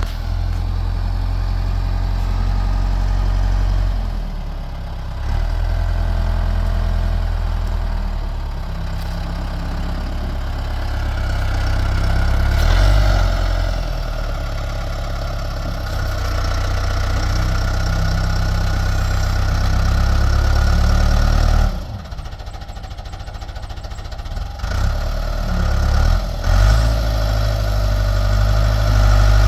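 Backhoe's diesel engine running under working load while the machine lifts and shakes a heavy stump. A higher whine rises over it from about the middle. The engine drops back briefly about three-quarters of the way through, then picks up again.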